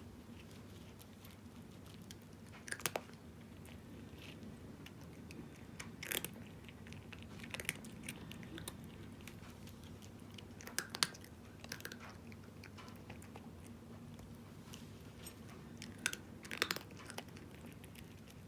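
A cat crunching dry kibble: short clusters of sharp crunches at irregular intervals of a second to a few seconds, over a faint low hum.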